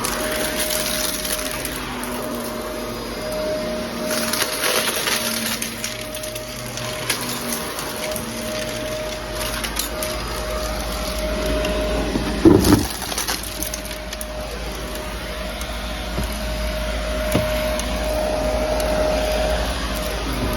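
Vacuum cleaner running and picking up scattered test debris, with crackling and crunching as bits are sucked in and a brief louder clatter about twelve and a half seconds in.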